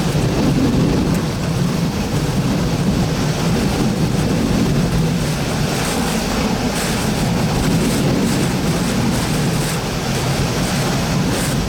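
Hurricane-force wind in a hurricane eyewall, a loud, steady rushing with heavy wind buffeting on the microphone.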